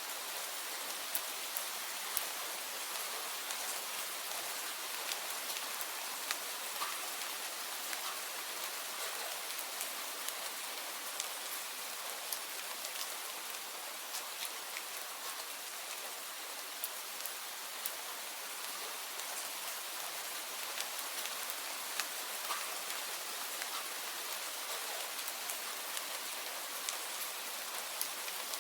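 Steady rain: an even hiss with many small sharp drop ticks scattered through it.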